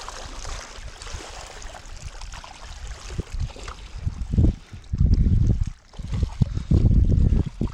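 Water lapping and trickling against a small boat's hull. From about four seconds in, strong wind gusts buffet the microphone in loud, uneven low rumbles.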